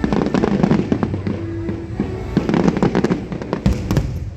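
Aerial fireworks going off in quick succession, a dense run of bangs and crackles, over music playing from the show's loudspeakers.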